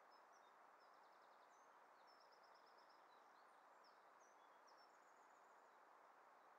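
Near silence: a steady faint hiss with small birds chirping faintly and high, including a couple of quick trills about one and two seconds in.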